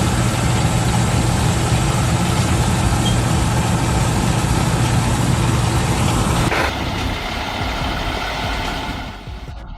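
Harvesting machinery at work in a bean field: a steady, loud engine drone under a broad rush of machine noise. The sound changes abruptly about two-thirds of the way through and then fades away near the end.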